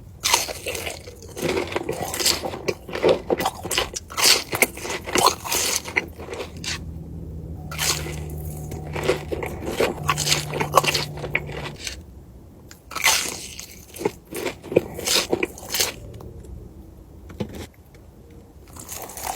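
Close-miked crunching and chewing of crunchy food, in bursts of bites separated by short quieter pauses.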